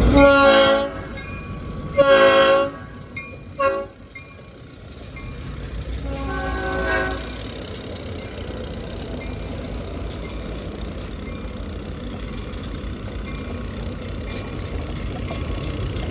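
New York and Atlantic Railway diesel freight locomotive's air horn sounding two long blasts, a short one and a fainter long one, the long-long-short-long grade-crossing signal. After it the train runs by with a steady low rumble.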